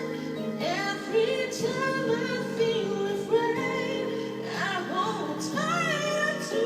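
A woman singing melismatic vocal runs, her pitch gliding and bending up and down, over sustained accompaniment chords.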